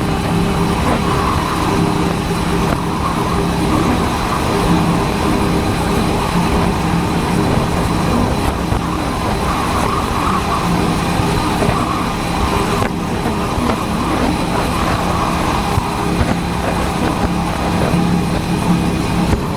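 Motorcycle engine running at a steady cruise, picked up by a helmet-mounted camera with wind and road noise around it.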